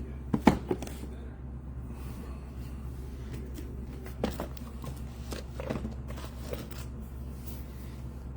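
Scattered handling noises as trading-card boxes and packaging are worked open: a few sharp clicks and knocks, the loudest about half a second in, with light scrapes and crunches over a steady low hum.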